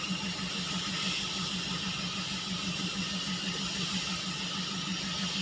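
Rice grain dryer running steadily: a constant hiss over a low hum that throbs evenly about five times a second.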